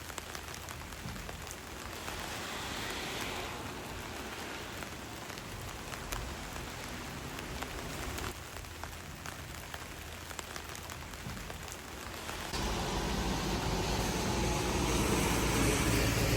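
Steady rain falling, an even hiss dotted with the small ticks of single drops. About twelve seconds in, a louder, deeper rushing noise sets in and carries on.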